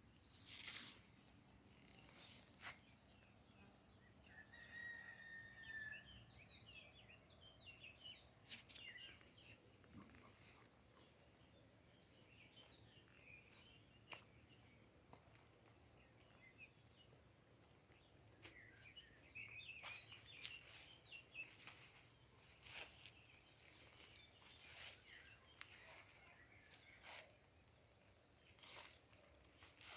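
Faint outdoor birdsong: scattered short chirps and twitters, busier in the second half, with one brief whistled note about five seconds in. Soft clicks come every few seconds.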